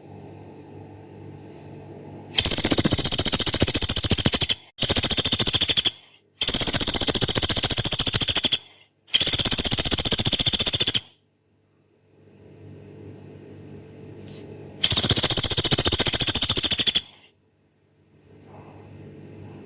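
Pelatuk beras, a small pygmy woodpecker, giving five long, rough, high-pitched trills of about two seconds each, every one a very fast even rattle; four come in close succession and the fifth after a pause of about four seconds.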